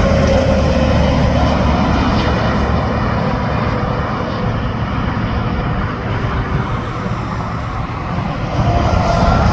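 Interstate traffic passing: a continuous rush of tyre and engine noise from trucks and cars. It eases off in the middle and swells again near the end as another vehicle comes close.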